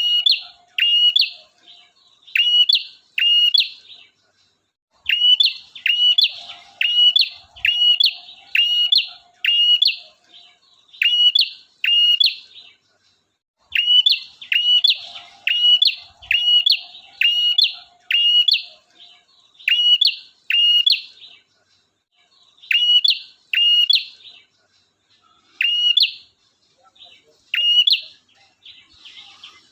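Male prinia (prenjak) singing: loud, sharp whistled notes that drop in pitch, repeated about two a second in long runs with short pauses between them.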